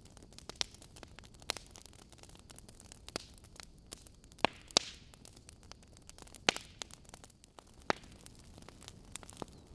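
Wood logs burning in a fireplace: irregular sharp crackles and pops over a faint steady hiss, the loudest pops at about four and a half, five and six and a half seconds in.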